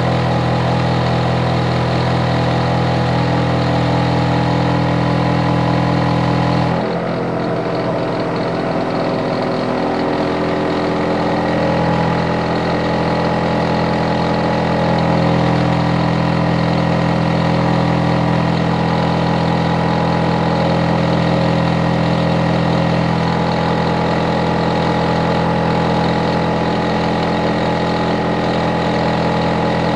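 Hitachi air conditioner outdoor unit running loudly with a steady hum and several steady tones. About seven seconds in, the low hum drops away and the tones shift in pitch, then the unit settles into a steady hum again.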